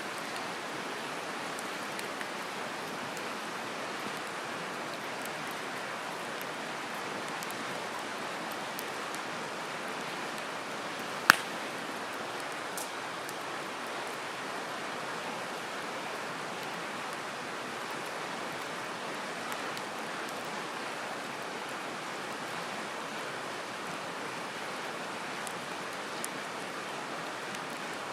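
Open wood campfire: a steady rushing background with firewood giving one loud, sharp pop about eleven seconds in and a few faint ticks.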